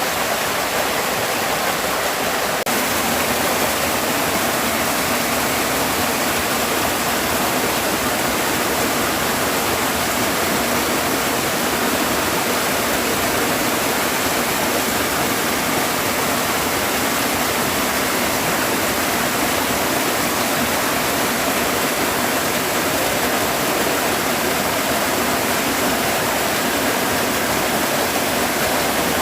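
Forest stream flowing over small falls, a steady, even rush of water.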